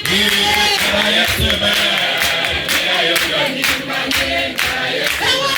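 A crowd of worshippers singing a praise song together, with clapping in time. A high voice holds one note over the singing for the first three seconds or so.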